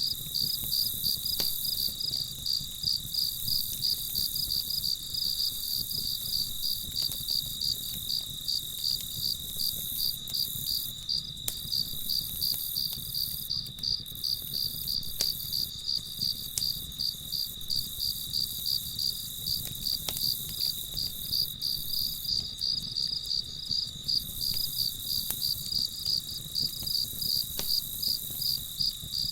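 Crickets chirping in a steady, even rhythm of several high chirps a second, with a few faint scattered clicks.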